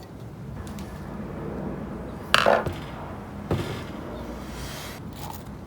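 Small metal fan hardware such as nuts, screws and a washer clinking against a hard surface during reassembly: two sharp metallic clinks about a second apart, the first the louder, followed by a short scrape.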